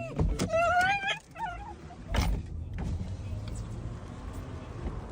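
A dog gives a short whine rising in pitch about half a second in, then a couple of small squeaks. A thump follows about two seconds in, then a steady low rumble.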